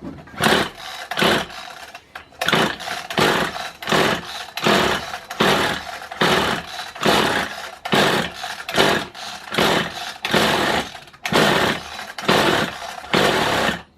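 Kawasaki hedge trimmer's small two-stroke engine being pull-started again and again, a quick run of recoil-starter pulls a little more than one a second, turning over without catching. With its new piston rings it sounds close to firing.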